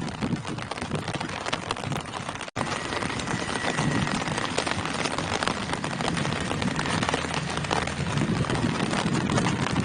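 Steady rain falling on tree foliage: a dense, even patter of drops. The sound cuts out for an instant about two and a half seconds in.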